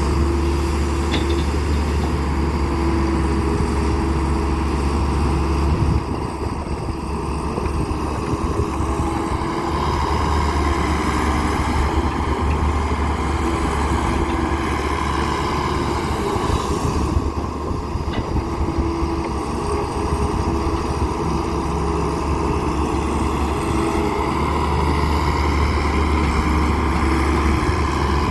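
Heavy diesel engine of a Daewoo 170W3 wheeled excavator running steadily while it digs and loads mud, with a deep hum whose level dips about six seconds in and then rises and falls gently with the load.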